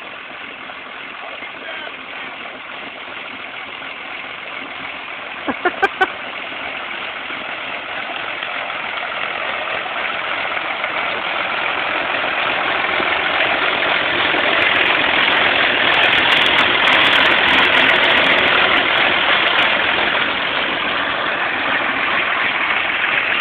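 Tractor engine running steadily, growing louder through the stretch, with three quick, short pitched blips about six seconds in.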